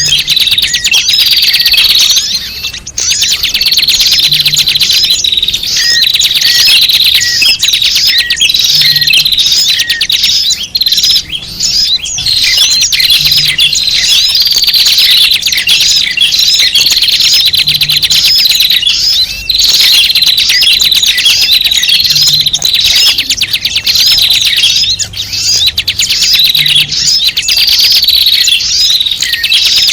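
A dense, noisy chorus of many small birds chirping and twittering without a break, high-pitched and loud. It is a bird-lure (pikat) recording of restless small birds, played to draw wild birds in.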